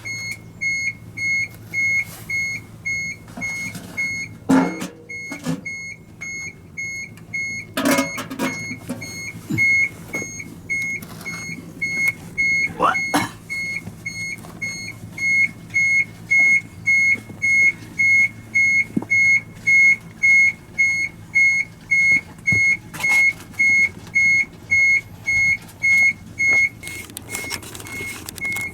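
Electronic warning beeper on a Mitsubishi Fuso Super Great truck, repeating an even high-pitched beep at a steady rate over a low steady hum. A few knocks and clanks come in the first half.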